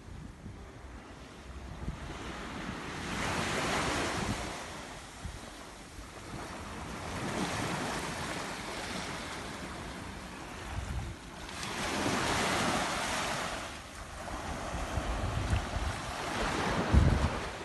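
Ocean surf on a beach: waves breaking in slow swells about every four to five seconds, each a rush that builds and fades, with wind buffeting the microphone and one strong gust near the end.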